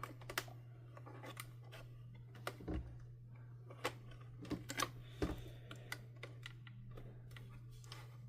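Scattered light clicks and taps of hand tools and plastic vacuum-cleaner housing parts being handled during disassembly, over a faint steady low hum.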